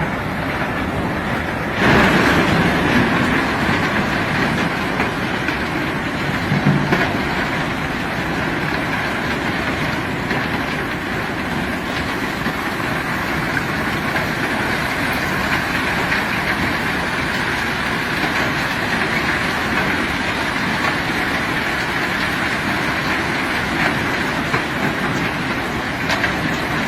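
Heavy machinery working through a steady load of rock, a continuous rumble and rattle that grows louder about two seconds in, with a short knock near seven seconds.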